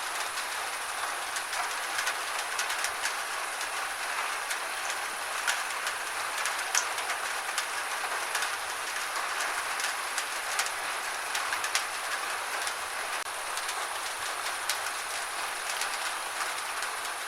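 Gentle rain falling steadily: an even hiss with many scattered sharp taps of single drops.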